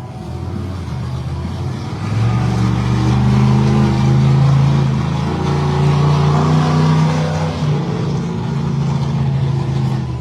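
Monster truck engine revving hard under throttle. It gets louder about two seconds in, then its pitch dips and climbs again as the throttle changes.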